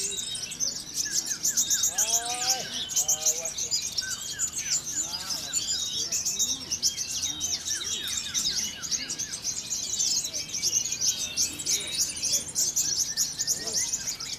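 Many caged competition songbirds, kolibri ninja sunbirds, singing at once: a dense chorus of rapid high chirps and trills, with some lower whistled glides in the first few seconds.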